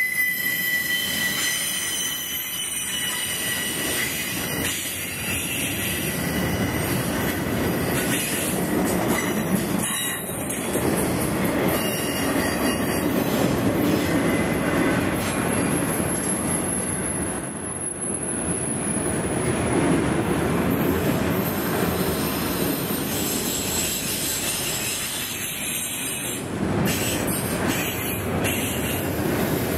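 Freight train of autorack cars rolling past on curved track: a steady rumble of steel wheels on the rails, with high-pitched wheel squeal, strongest at the start.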